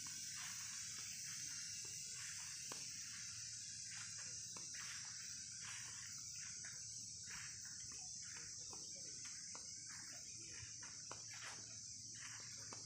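Faint, steady, high-pitched insect chorus, broken by scattered soft rustling swishes and a few light clicks.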